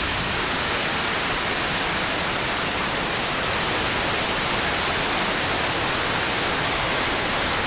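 Falcon 9 first stage's nine Merlin 1D engines firing just after liftoff: a loud, steady rushing noise that does not change.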